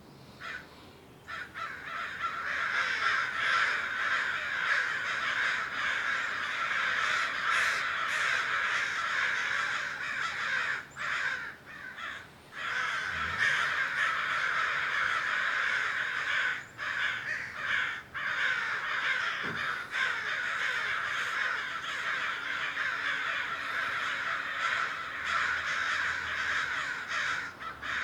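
Crows cawing, the harsh calls overlapping almost without a break, with a few short pauses.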